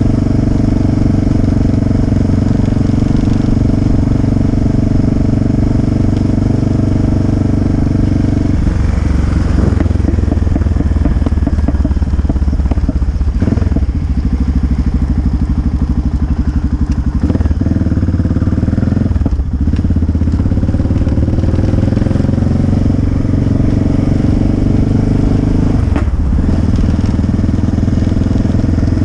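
Motorcycle engine running while riding. The note shifts several times, with brief breaks at a few points as the rider changes gear or speed.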